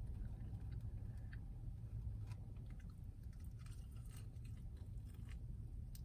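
A person chewing food close to the microphone, with many small wet mouth clicks. A steady low rumble runs underneath.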